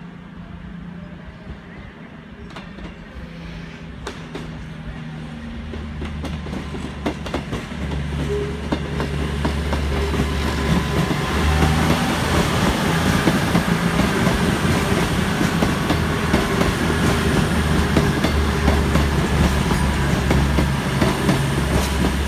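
A train approaching through the station, growing louder over the first ten seconds. It then runs close by loud and steady, with a low rumble and a run of short clicks from the wheels.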